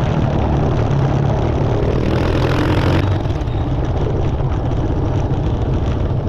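Motorcycle engine running steadily while riding off-road, with wind and road noise over it; it eases off a little about halfway through.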